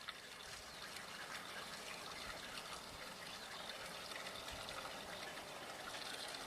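Steady rain falling during a thunderstorm, with water trickling.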